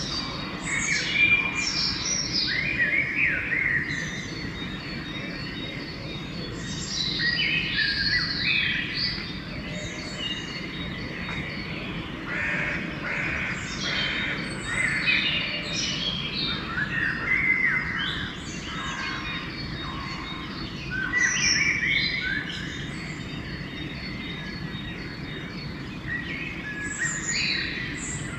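Pre-dawn chorus of songbirds: several birds sing overlapping short phrases and chirps, with a few louder bursts of song, over a low steady rumble.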